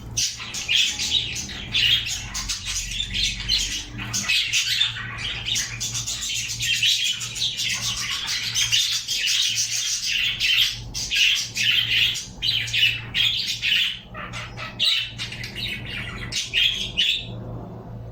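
Pet birds chattering nonstop in a dense run of rapid chirps and squawks, over a steady low hum; the calls thin out and fade near the end.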